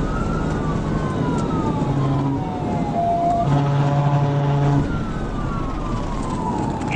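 Police cruiser siren wailing, its pitch sweeping slowly up and down, over steady engine and road noise of the pursuing car, with a short steady tone sounding briefly midway.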